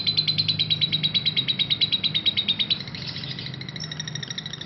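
Parblue lovebird giving a long ngekek: an unbroken run of sharp, high chattering notes, about a dozen a second. The run drops in loudness a little under three seconds in but keeps going.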